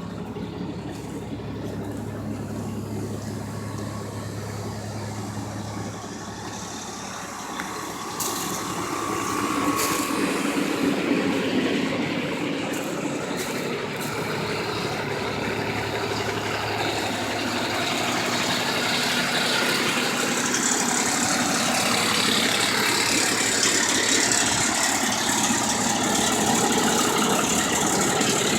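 Tow truck's engine running at idle, then the truck gets under way about eight seconds in, with engine and road noise building. A few sharp clicks come around eight and ten seconds in.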